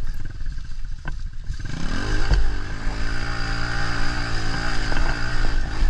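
110cc pit bike's single-cylinder engine revving up, its pitch rising over the first two seconds, then pulling steadily under load with a slightly wavering note as it climbs a steep hill. A brief knock about a second in and a low thump just after two seconds.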